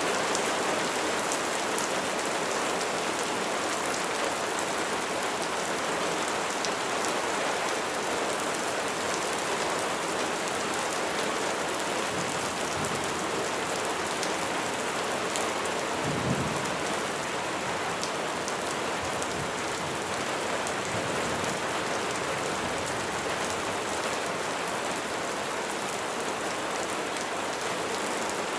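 Steady heavy rain falling on a surface, with individual drops ticking through it. A short low rumble of thunder comes a little past halfway through.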